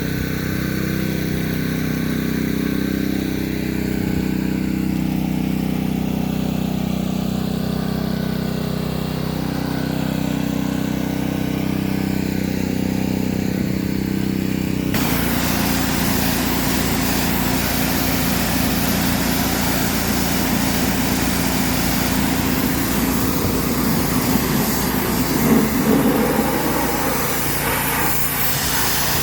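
A small engine, such as one driving an air compressor, running steadily. About halfway through, a loud, even hiss of abrasive blasting starts abruptly on top of it.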